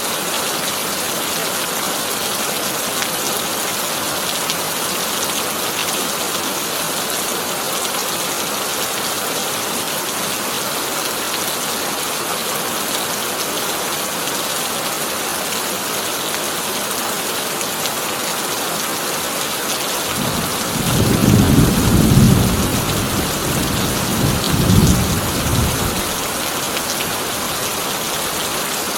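Heavy rain falling steadily on a tin roof as an even hiss. Late on, a low rumble of thunder rises, swells twice over several seconds and dies away.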